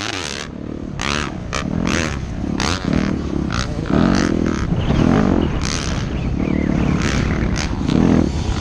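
Yamaha YZ250F four-stroke single-cylinder dirt bike engine revving hard and backing off over and over, about once a second, as the bike is ridden around a motocross track.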